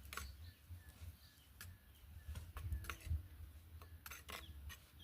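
Faint short bird chirps over a steady low rumble, with scattered sharp clicks at irregular intervals.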